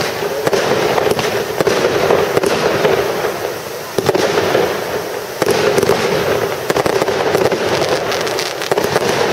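Fireworks display: aerial shells bursting with sharp reports, about four and five and a half seconds in, over continuous dense crackling from the stars.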